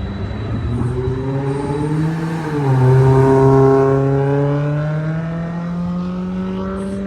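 Car engine accelerating, its pitch climbing, dropping about two and a half seconds in as it shifts gear, then climbing slowly again. It is loudest just after the shift.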